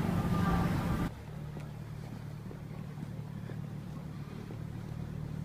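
A car's engine running steadily at low revs, a low even hum. The sound drops abruptly in level about a second in, then carries on steady.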